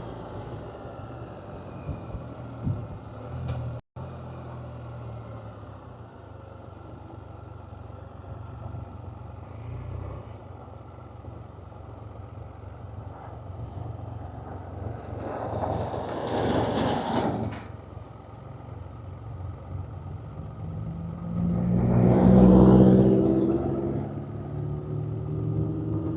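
Can-Am Spyder engine idling while the trike stands stopped. Twice, about sixteen and twenty-two seconds in, louder vehicle noise swells and fades as other vehicles pass by.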